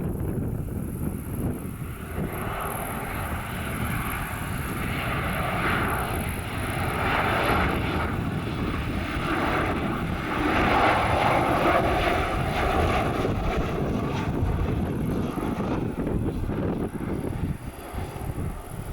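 Airliner engines passing close by, a rushing roar that swells to its loudest about eleven seconds in and then eases off over a low rumble.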